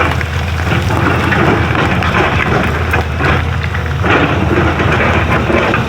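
Excavator's diesel engine running with a steady low rumble, under irregular crunching and scraping as the bucket digs up the road surface.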